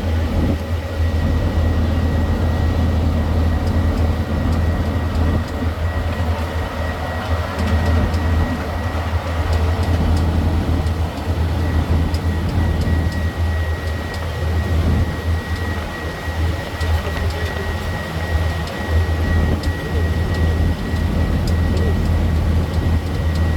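Steady low drone of a road-going tourist train running, engine and wheels together, with a thin steady high whine over it.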